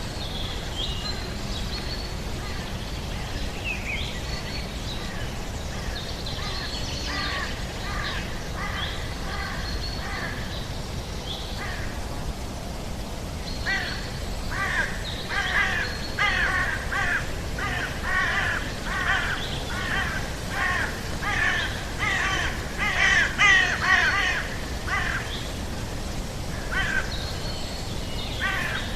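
Outdoor nature ambience of birds calling: thin whistled notes at first, then about halfway through a run of harsh, rasping calls repeated once or twice a second, loudest near the end, over a steady low rumble.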